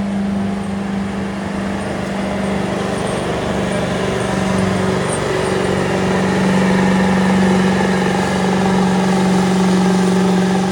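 A 2002 Ford F-350's 7.3-litre Power Stroke V8 diesel held at high revs under full load while pulling the sled. It makes a loud, steady drone, sagging briefly about four seconds in and then holding steady again.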